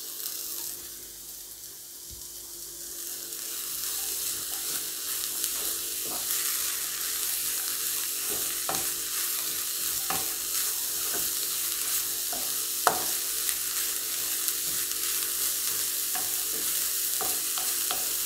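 Chopped carrot and grated coconut frying in coconut oil in a kadai, sizzling steadily and growing louder a few seconds in. A wooden spatula stirs it, with scattered scrapes and taps against the pan, one sharper knock about two-thirds of the way through.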